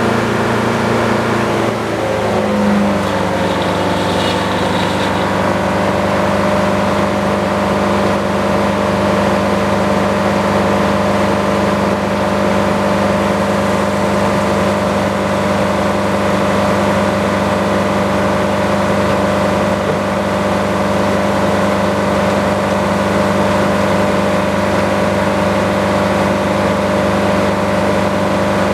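Sawmill's engine running steadily through a cut; its pitch drops about two seconds in, then holds steady.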